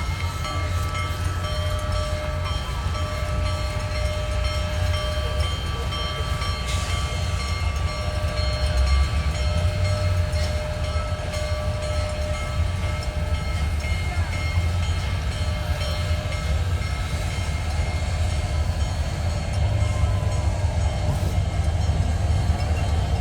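Union Pacific Big Boy No. 4014 steam locomotive and its train rolling out: a steady heavy low rumble with faint thin high tones running over it.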